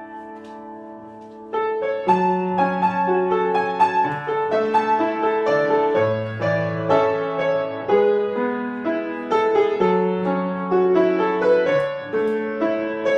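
Solo piano playing. A held chord dies away for about a second and a half, then the playing resumes with a steady run of notes and chords.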